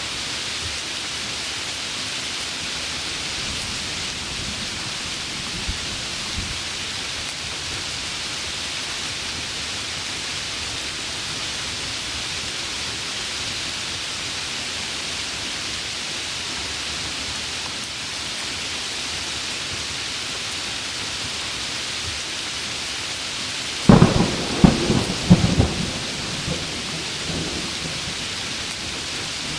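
Steady heavy rain, with a loud crack and rumble of thunder near the end that dies away over a few seconds.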